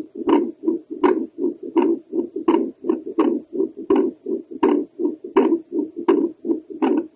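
Home Doppler ultrasound picking up a heartbeat over the tricuspid valve: a steady run of whooshing pulses at about 80 beats a minute, each beat a louder whoosh followed by a softer one.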